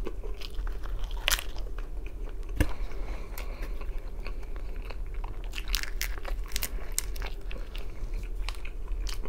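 A person biting and chewing crusty thin-crust pizza close to the microphone, with irregular crunches and crackles of the crust; two crunches, about a second and two and a half seconds in, stand out louder.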